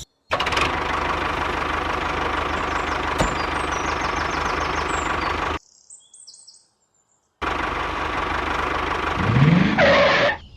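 A small engine running steadily with a rapid low rhythm. It cuts off abruptly about halfway, comes back about two seconds later, and rises in pitch near the end.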